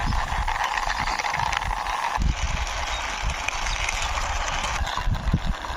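Plastic toy vehicles pushed along by hand, their wheels rolling with scattered rattles and knocks over a steady hiss. The sound changes abruptly about two seconds in.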